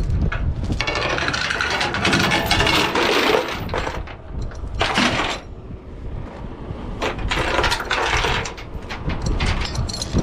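Steel tie-down chain being handled and run through, its links clinking and rattling in clusters, with a short pause near the middle.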